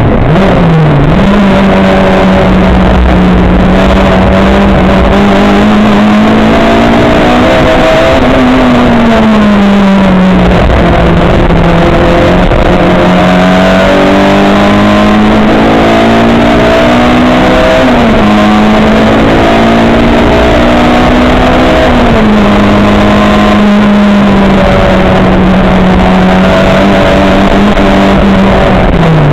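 Race car's engine heard from inside the car at speed. Its note holds mostly steady, climbs and falls a few times, and briefly dips and recovers near the start and again near the end.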